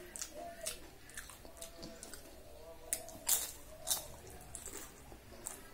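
Close-up eating sounds of a person chewing khichuri and papad: wet chewing and lip smacks, with a few louder, sharper bites about three to four seconds in.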